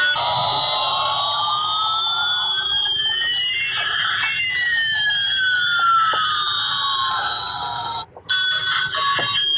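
Battery-operated Airbus A380 toy plane playing its electronic jet-engine sound effect: a hiss with one whistle rising and another falling across it over about eight seconds. It cuts out briefly near the end, and the toy's electronic tune starts again.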